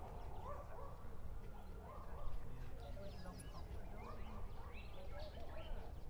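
Repeated short bird calls, a few each second, over a steady low rumble.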